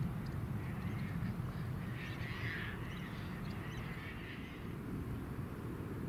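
Birds calling: a few rough, harsh calls spaced across a few seconds over a steady low rumble.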